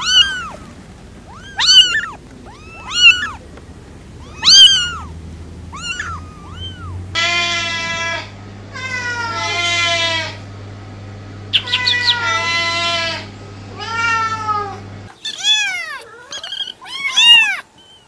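Domestic cat meowing over and over: short rising-and-falling meows about once a second or two, then longer drawn-out calls from about seven seconds in, then more short meows near the end. A low steady hum runs underneath and stops about fifteen seconds in.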